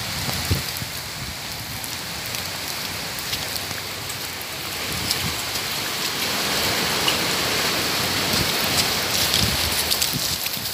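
Rain falling steadily, with scattered drop impacts, growing a little louder about halfway through.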